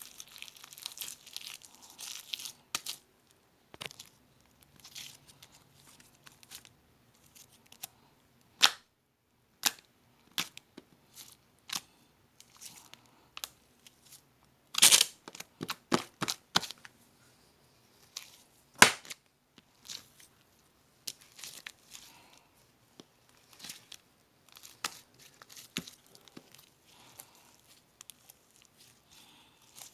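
Cream slime being worked with crushed meringue cookies mixed in: irregular crisp crackles, snaps and pops. There is a dense loud run of crackles about halfway through and a single sharp snap a few seconds after it.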